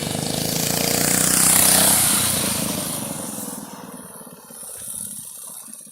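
Honda-powered minibike's small single-cylinder engine running as the bike rides past, growing louder to a peak about a second and a half in and then fading away.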